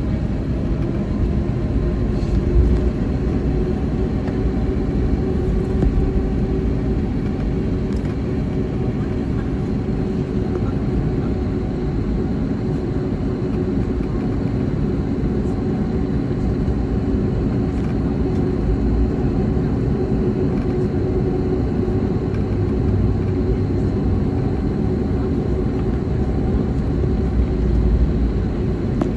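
Airbus A321neo cabin noise: a steady, loud low rumble of engines and airflow with a faint steady hum, heard from inside the cabin.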